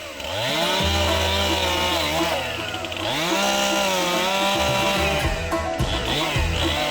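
Chainsaw engine revving up to a high, steady pitch, easing off slightly after about two seconds and revving up again about three seconds in. Near the end it runs unevenly, the pitch breaking up and fluttering.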